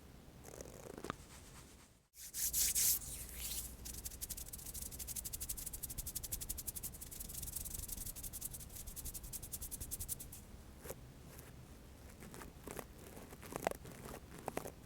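Close-miked hands rubbing briskly together in fast, even strokes, then slowing to scattered rubs near the end.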